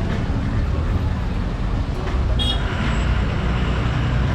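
Town street traffic: a steady low rumble of passing vehicles, with a brief high-pitched sound about halfway through.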